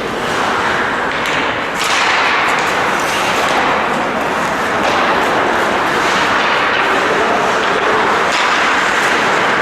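Ice hockey game noise in the rink: a steady noisy wash with a few knocks, growing louder about two seconds in.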